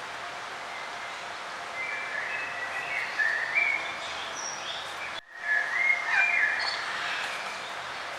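Songbirds singing over a steady outdoor hiss, with short chirping, gliding phrases from about two seconds in. The sound cuts out for an instant about five seconds in, then the birdsong resumes at its loudest.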